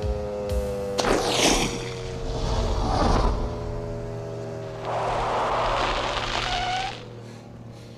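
Action-film chase sound mix: vehicle engines droning steadily, with loud rushing, crashing noise bursts about a second in, around three seconds, and again from about five to seven seconds, before the sound falls away near the end.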